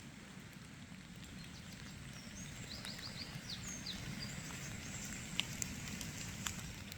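A run of short, high chirps from a small bird over a steady low rumble, with a few faint clicks later on.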